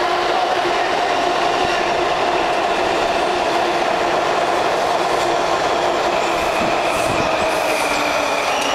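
Six-car Washington Metro train running through a station without stopping: a loud, steady rumble of wheels on rail with a steady hum underneath. From about six and a half seconds in, a high wheel squeal joins it.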